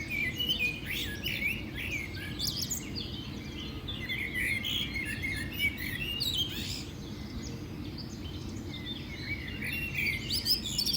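Several birds chirping and singing, with short overlapping calls and trills throughout, over a steady low background rumble.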